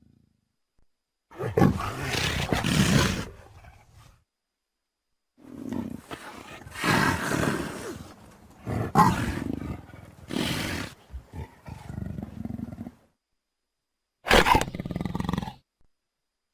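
Big cat roaring in three bouts: one early, a long stretch in the middle with several loud peaks, and a short loud roar near the end, with abrupt silent gaps between them.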